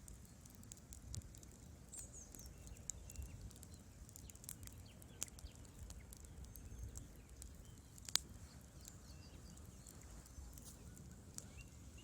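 Wood fire crackling in a fireplace, with irregular sharp pops and one much louder pop about eight seconds in.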